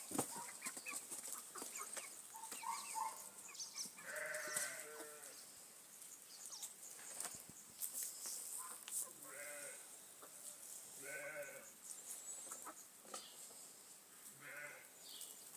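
Chickens calling: short chirps in the first few seconds, then four drawn-out calls a few seconds apart.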